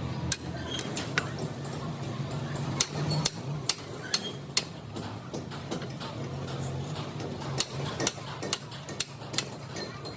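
Irregular sharp metallic clicks and knocks of hand tools working on metal parts, over a steady low machine hum.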